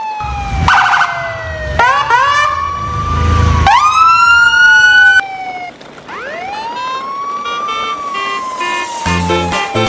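Wailing siren sound effect, its pitch falling slowly over a few seconds, then sweeping up again, several times over. Background music comes back in near the end.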